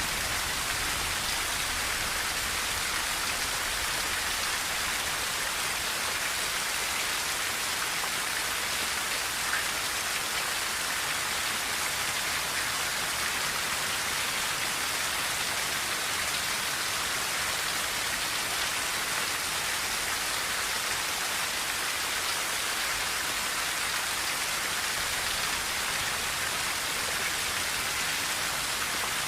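Rain falling steadily on a tin roof, an even hiss of drops that neither rises nor falls.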